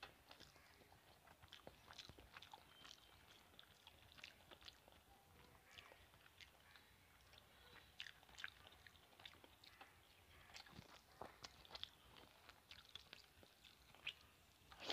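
Faint chewing of rice and fish curry, with many small wet mouth clicks and smacks at irregular intervals.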